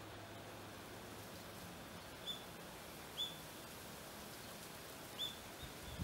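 A small bird giving three short, high chirps, a second or two apart, over a faint steady outdoor hiss.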